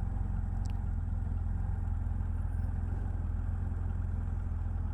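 BMW F800GS motorcycle's parallel-twin engine running steadily with a low, even rumble.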